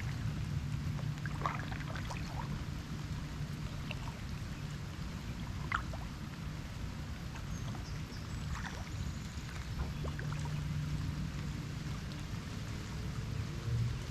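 Kayak out on the water in light rain: scattered drips and small splashes of water from the paddle and raindrops over a soft wash of water, with a steady low hum underneath.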